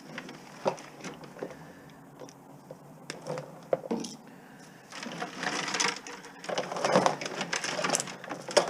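Scrap electronics and cords being handled and sorted by hand: irregular clicks, knocks and rattles of plastic and metal pieces, with longer clattering stretches in the second half.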